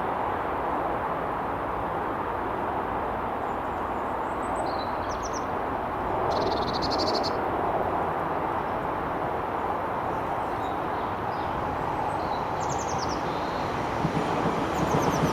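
Steady rumble of an approaching train, growing louder near the end as it draws close, with small birds chirping in short bursts.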